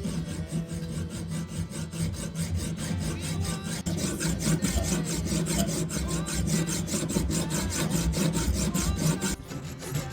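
Knife blade stroked rapidly back and forth against a hard sharpening surface, an even rasping several times a second. The strokes grow stronger about four seconds in and stop shortly before the end.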